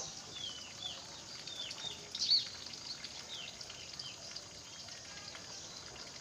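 Sogon birds calling: a series of short, high chirps, a few each second, with one louder call about two seconds in. The chirps thin out in the second half.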